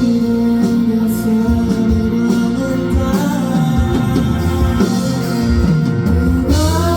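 Live band music with guitar and bass and a singer's voice. A sustained chord swells in near the end.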